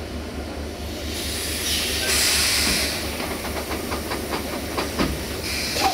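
Passenger train starting to pull away: a hiss of compressed air from the brake gear, followed by a quick run of sharp clicks and knocks, over a steady low hum.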